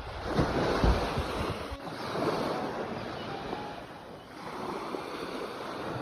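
Sea waves breaking and washing in, in three surges about two seconds apart, the first the loudest. Wind rumbles on the microphone during the first surge.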